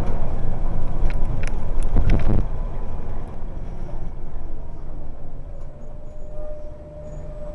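Scania L49UB bus engine running, loud for the first two seconds or so and then dropping away to a quieter rumble, with a few sharp clicks in the loud part.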